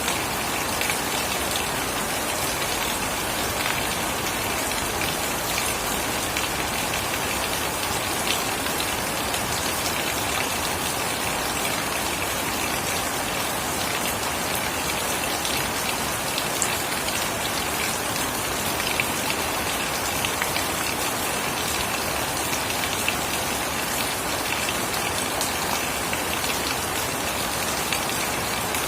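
Steady rain falling and pattering on surfaces, an even hiss dotted with many small drop impacts.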